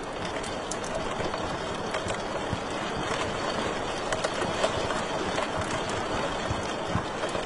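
Wood fire crackling in a fireplace: a steady rush of burning with frequent small pops and a few louder snaps about four to five seconds in.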